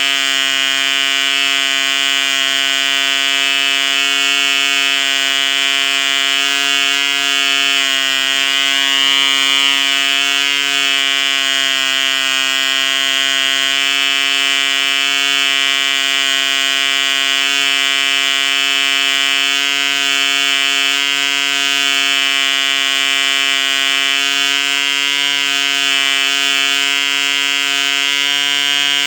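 A 1 cc ED Mk2 model diesel engine turning an 8x4 propeller, running steadily at a constant pitch.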